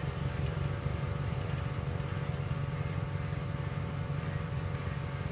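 Car engine idling steadily with a deliberately induced misfire, one cylinder disabled by disconnecting its fuel injector or ignition coil.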